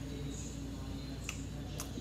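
Faint wet clicks and smacks of a mouthful of potato salad being chewed off a spoon, a few single ticks over a steady low room hum.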